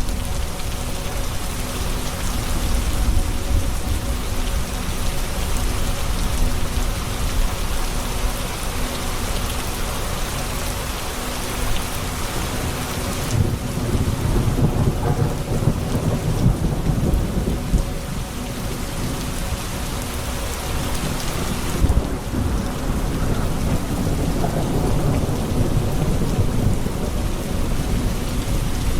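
Steady heavy rain with rolling thunder. The low rumble swells about halfway through, eases, then builds again near the end.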